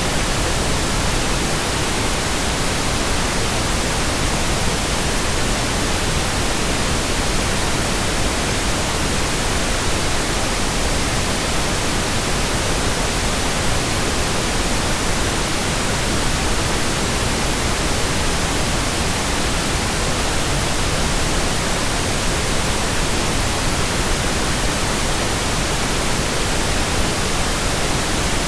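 Steady synthetic white noise: an even, unchanging hiss across the whole frequency range with no pauses or events.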